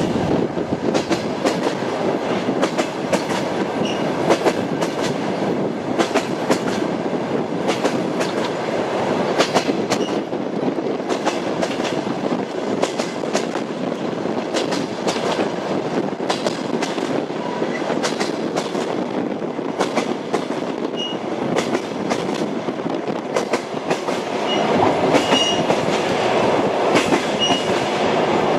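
Train wheels clacking over rail joints while running between stations, a steady rumble broken by irregular clicks. Occasional brief, faint wheel squeals come through.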